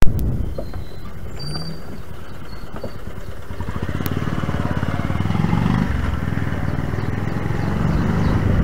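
Motorcycle engine running while riding down a street, a fast, even beat with a sharp click at the very start. It is an engine that makes a loud 'tick tick tick' noise, a problem that has gone on for many days.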